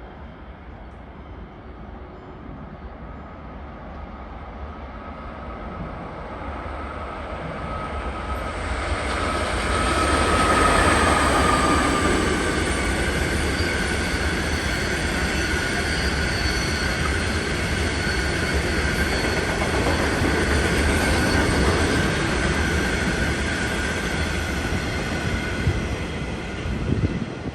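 A train approaching and passing on the tracks: rail noise builds over about ten seconds, then runs loud with several high steady whining tones over the rumble, and cuts off suddenly near the end.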